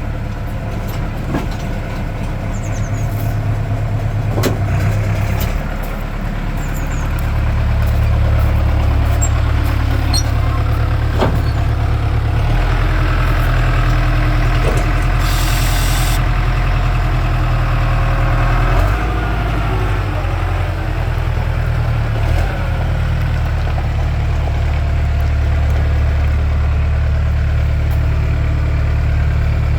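Diesel engine of a Schaeff construction machine running, its note stepping up and down several times as the load or revs change. A short hiss sounds about halfway through.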